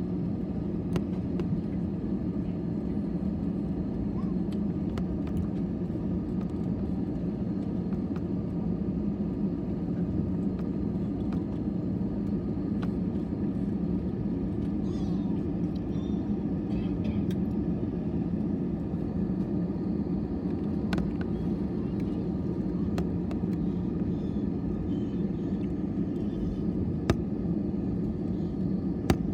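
Steady low drone inside a jet airliner's cabin, engine and air-system noise with no rise in pitch or level, with a few faint clicks and knocks, two of them near the end.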